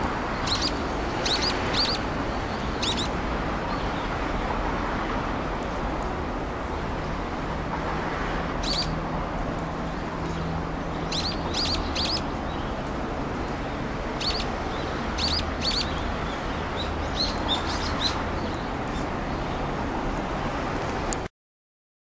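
Brown-eared bulbul giving short, high calls in brief clusters, repeated several times, over a steady hiss of outdoor background noise. The sound cuts off near the end.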